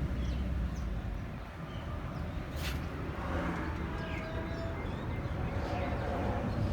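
Tractor engine idling with a low, steady rumble.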